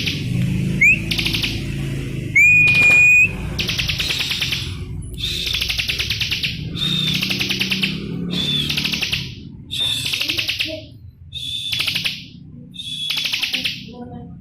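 Bar-winged prinia (ciblek) singing. About ten phrases follow one another, each a short clear whistle and then a fast, buzzy trill. A low hum runs underneath.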